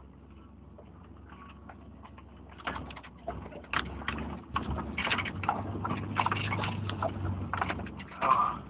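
Inside a truck cab crawling over twisting off-road terrain: the body and suspension creak and clunk as the frame flexes, over a low engine hum. The clunks and creaks start about two and a half seconds in, and the engine grows louder about halfway through.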